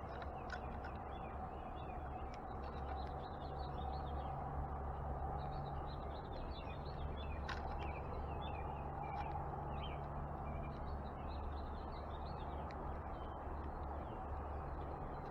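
Small birds at a backyard feeder chirping and twittering in many short calls throughout, over a steady low background rumble, with one sharp click about halfway through.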